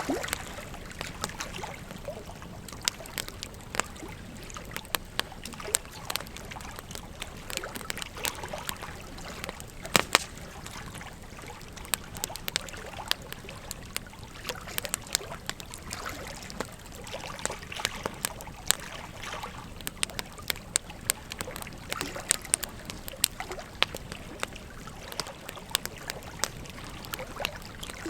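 Wood fire crackling with frequent sharp pops over the steady rush of a flowing river, with one louder pop about ten seconds in.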